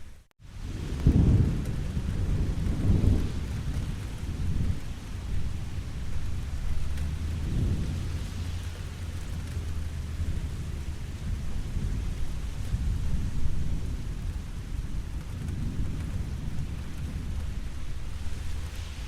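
Steady rain falling, with rolling thunder that swells and fades several times, loudest in the first few seconds. The sound cuts out completely for a split second just after the start.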